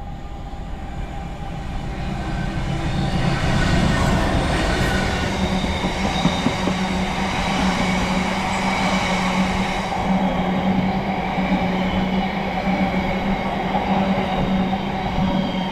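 Diesel passenger train at the station platform. It grows louder over the first four seconds, then runs with a steady engine hum.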